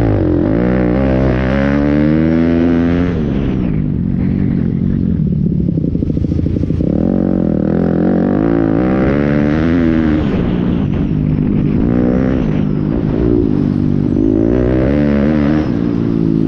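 Pit bike engine at racing speed, its pitch climbing and dropping back again and again as it is revved hard and let off.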